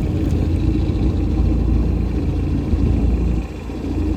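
Motorboat engine running steadily with a low rumble, dipping briefly near the end.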